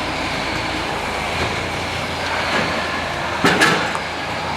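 Ford Fiesta Mk7 EcoBoost engine running steadily through a newly fitted Cobra cat-back performance exhaust, a sound the owner calls amazing. A short sharp double knock cuts in about three and a half seconds in.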